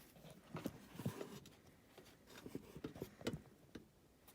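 Faint, scattered clicks and taps of hands working with small parts and tools while fitting a replacement contactor into an air handler.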